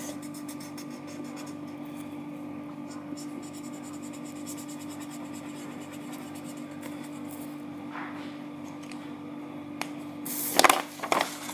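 Pink colouring scratching steadily on paper as the cat's nose and ears are coloured in, over a steady low hum, with a few louder sharp knocks or rustles near the end.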